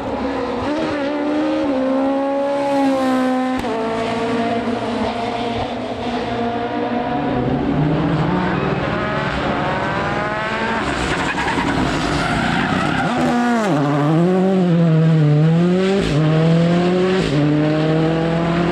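Rally car engine at full throttle, its pitch climbing and stepping down through gear changes, dropping sharply on a lift, then rising again as it accelerates away.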